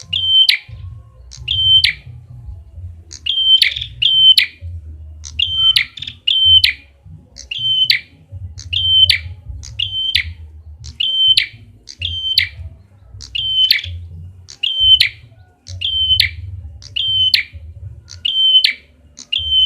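Lure recording of a prenjak kepala merah (red-headed prenjak, a small prinia-type songbird) calling: a short, sharp, high call repeated about once a second, often in quick pairs, over a steady low hum.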